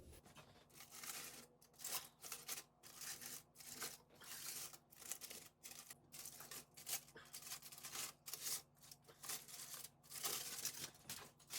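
Aluminum foil being peeled off baking dishes, crinkling faintly in many quick, irregular crackles.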